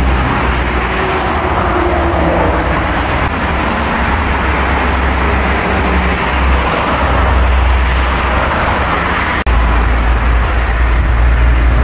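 Steady road traffic rushing past, a continuous mix of tyre and engine noise with a heavy low rumble.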